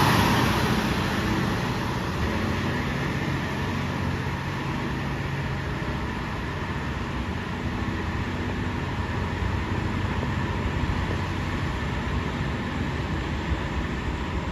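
Diesel train running, a steady rumble with a low engine hum, loudest in the first second and then holding level.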